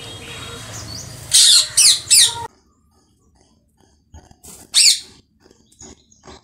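A bird calling: three quick, loud calls falling in pitch about a second and a half in, and one more near the middle, with a few faint clicks in between.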